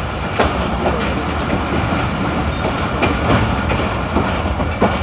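Tezgam Express passenger train running on the track: a steady rumble with a few scattered clicks of the wheels over rail joints.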